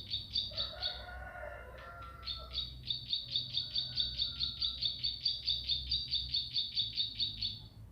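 Bar-winged prinia (ciblek pari) singing a fast, even series of repeated high chirps, about six a second. It breaks off briefly about a second in, when lower warbling notes are heard, then resumes and stops near the end.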